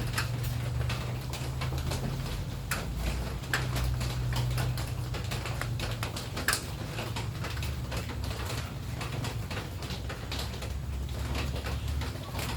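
Irregular ticks and taps of raindrops striking a hard surface, over a steady low hum.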